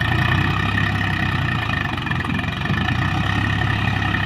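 Combine harvester running steadily: a deep, even engine rumble with a steady high-pitched whine over it.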